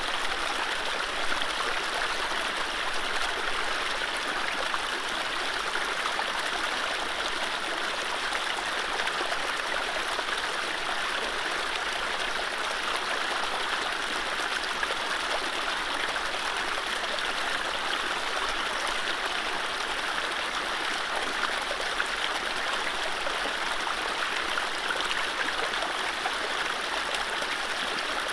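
Mountain stream running over low rapids: a steady, even rush of water.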